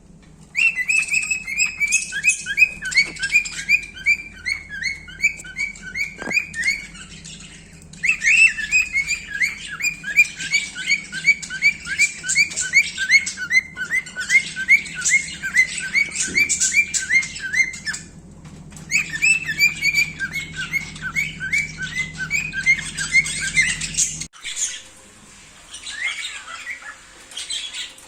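Pet cockatiel whistling and chirping in long runs of quick repeated notes, about three a second, each run slowly falling in pitch; three runs with short breaks, then softer scattered calls near the end.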